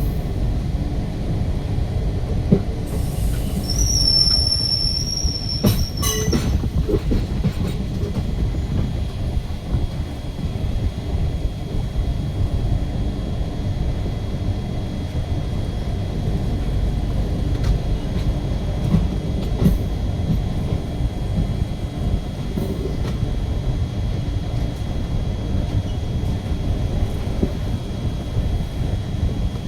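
Parashuram Express passenger train running on the track with a steady low rumble. A high-pitched wheel squeal sounds for about three seconds near the start, followed by a few sharp clacks.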